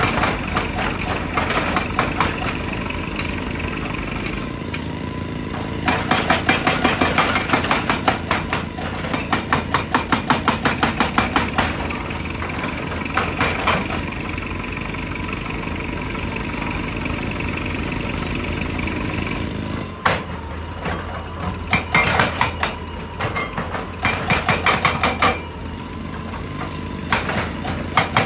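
Excavator engine running steadily, with several bursts of rapid, evenly spaced hammering from a hydraulic rock breaker striking rock.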